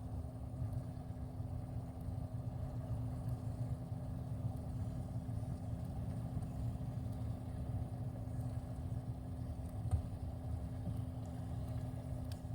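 Steady low mechanical hum with a constant tone, with a faint tick about ten seconds in.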